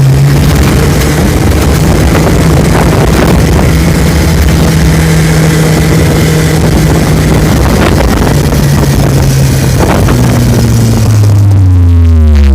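Off-road vehicle engine running loudly under a heavy rush of noise. Its pitch shifts up and down a few times, then falls away near the end as it slows.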